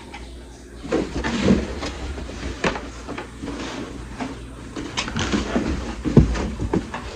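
Plastic parts of an electric fan knocking and clicking as they are handled and fitted together, in irregular knocks with the loudest about six seconds in.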